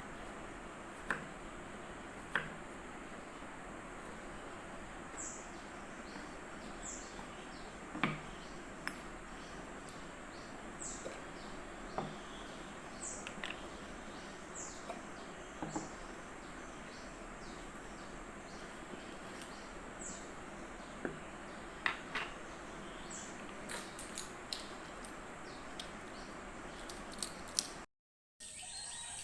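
Steady background hiss with scattered light clicks and knocks, over a dozen short, high, falling chirps that repeat every second or two.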